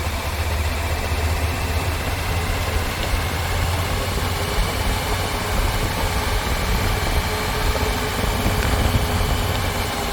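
Steady, unbroken low engine rumble of a running vehicle, with no change in pitch or speed.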